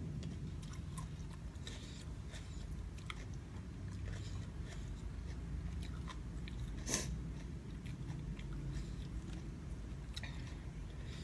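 A person chewing and biting food close to the microphone, with scattered small crunches and clicks and one sharper click about seven seconds in.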